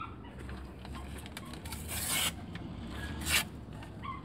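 Matches struck on a matchbox: two short scratches about a second and a half apart, the first one longer, over a low steady rumble.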